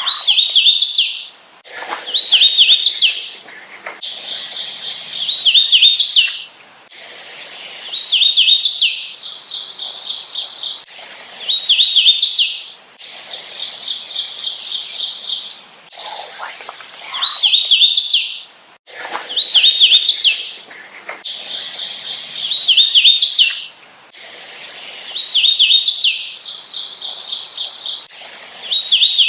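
Hooded warbler singing over and over, about ten times: each song is a quick run of slurred whistled notes ending in a higher, emphatic upslurred note. Between some songs runs a steady rapid trill of repeated notes.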